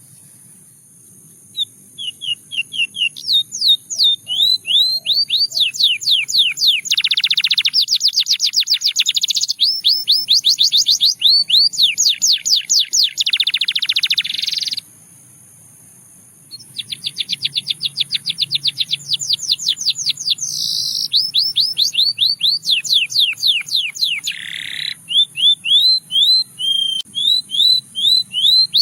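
Male canary singing: long phrases of rapid repeated falling notes, several notes a second, with short rolls and trills, broken by two pauses of a second or so.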